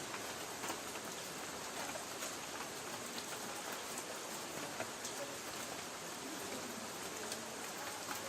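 Light rain pattering on a tin roof: a steady hiss of rainfall with scattered sharp drop ticks on the metal.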